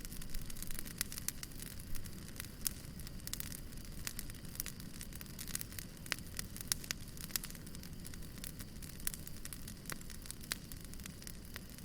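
Fire crackling: many small, irregular snaps and pops over a steady low rumble of burning.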